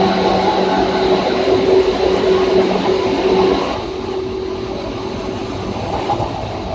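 Electric commuter train running, heard inside motor car 2375 of set 2075F: steady rail and running noise with a motor hum. About four seconds in, part of the hum drops away and the running noise becomes quieter.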